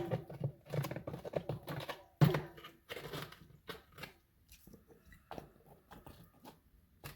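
Bricks and stone clattering and crunching as they are handled and packed into a washed-out hole. There is a sharp knock at the start and another about two seconds in, with scraping and crunching between them and scattered clicks after.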